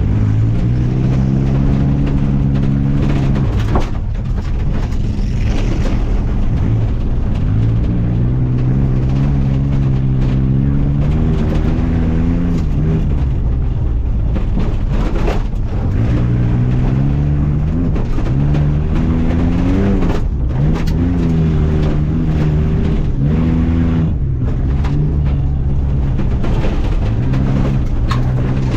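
Off-road truck engine under hard throttle, revving up and dropping back every few seconds over a steady low rumble, with a few sharp knocks.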